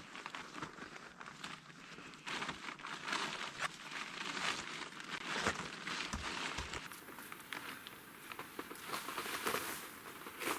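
Irregular crunching and rustling, with many small crackles and a few low thumps around the middle: someone moving about in snow and handling camp gear.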